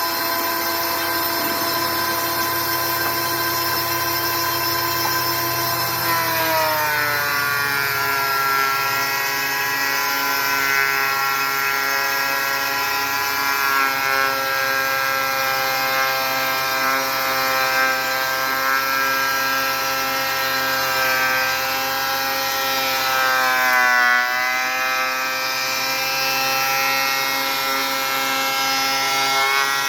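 Thickness planer motor running with a steady whine. About six seconds in its pitch drops and stays lower as it comes under load, and it sags and recovers again about 24 seconds in.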